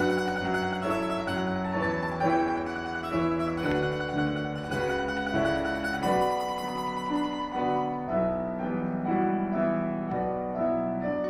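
Domra playing a folk-song melody with piano accompaniment, a continuous flow of plucked notes over piano chords.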